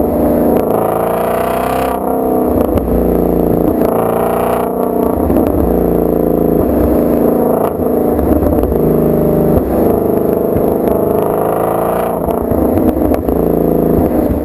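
2016 Shelby GT350's 5.2-litre flat-plane-crank V8 and exhaust being driven hard. The engine note rises and falls several times as the car accelerates and shifts, with a few sharp clicks along the way.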